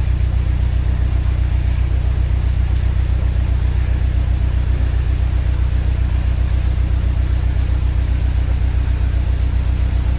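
Narrowboat's diesel engine idling with a steady, even low throb.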